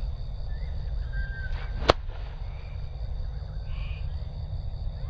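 A golf club striking the ball once, about two seconds in: a single sharp strike played from a wet, embedded lie.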